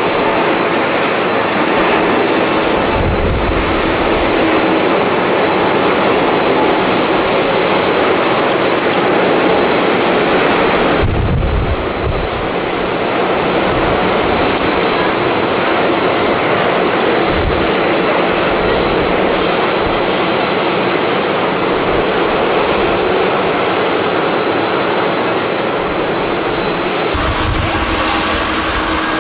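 Jet airliner engines: a loud, steady rushing noise. Low gusts of wind buffet the microphone a few times, and the noise changes abruptly about eleven seconds in and again near the end.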